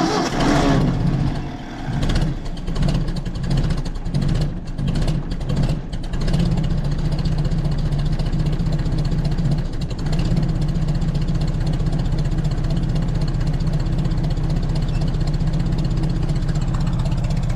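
Tractor engine just started cold, running rough and uneven for the first few seconds, then settling into a steady idle as it warms up.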